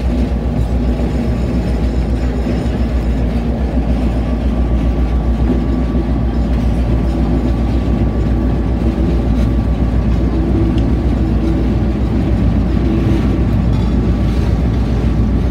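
Diesel-hauled train running along the track, heard up close from the open platform behind the locomotive: a loud, steady rumble of the locomotive's diesel engine mixed with wheel-on-rail and coupler noise.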